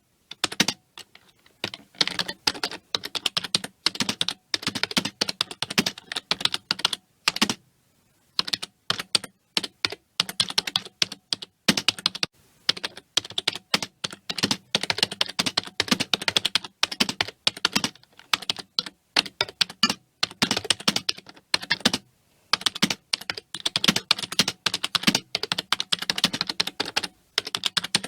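Fast typing on a computer keyboard: a rapid, uneven run of key clicks with a few short pauses, one at about eight seconds in and another near the end.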